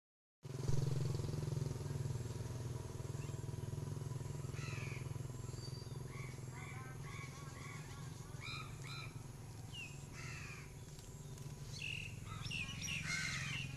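Birds calling: a run of short repeated calls in the middle and several harsher falling cries, over a steady low hum.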